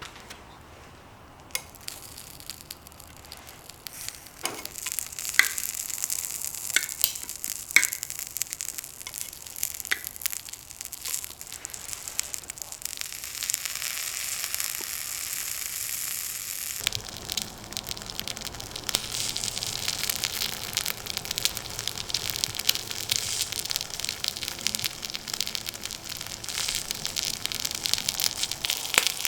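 Food sizzling in a hot pan, with scattered sharp pops in the first several seconds; the sizzle changes abruptly twice, about a second and a half in and past the middle.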